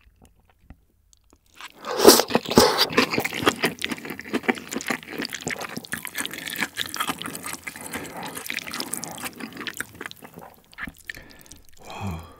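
Close-miked wet slurping and chewing of a saucy mala xiang guo mouthful of tofu skin strips and crunchy vegetables. It starts about two seconds in, runs on densely for about eight seconds, then thins out.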